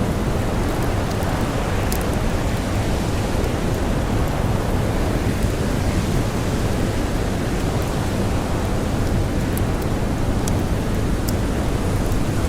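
Blizzard wind blowing steadily, a dense deep noise with no letup, with a few faint sharp crackles of a wood campfire.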